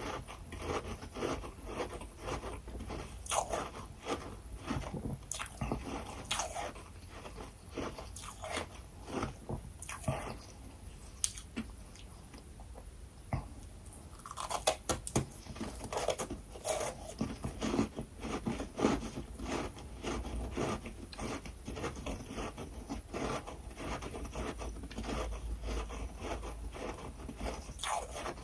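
A person biting and chewing freezer frost: dense, irregular crunching, with a quieter pause of a few seconds about halfway through.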